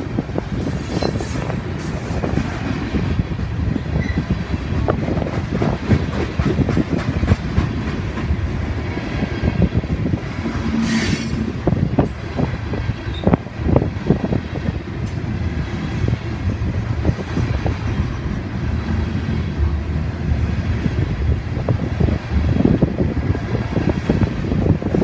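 BNSF freight train's steel-wheeled coal cars rolling past at speed: a steady rumble of wheels on rail, with frequent clacks and knocks. A brief high wheel squeal comes about eleven seconds in.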